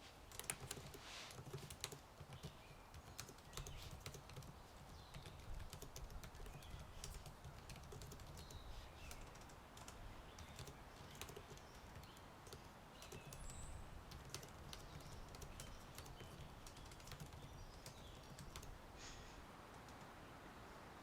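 Typing on a computer keyboard: faint, irregular key clicks in bursts, starting about half a second in.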